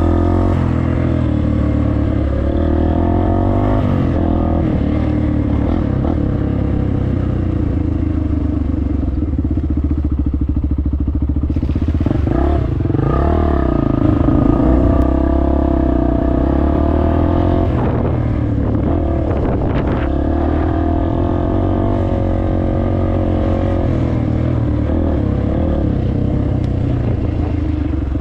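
Dirt bike engine running under changing throttle while riding trails, its pitch rising and falling with several revs. There are a few short knocks about two-thirds of the way in.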